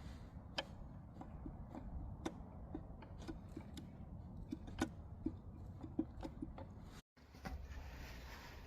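Light clicks and taps at uneven intervals, a dozen or so, over a low background rumble.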